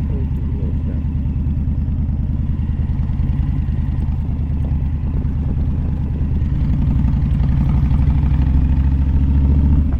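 Motorcycle engine running under way, a dense low pulsing that grows louder and a little higher from about six and a half seconds in as the bike speeds up.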